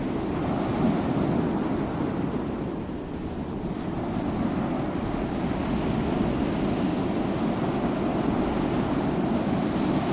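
Sea waves washing on the shore in a steady rush, easing slightly about three seconds in and then swelling again.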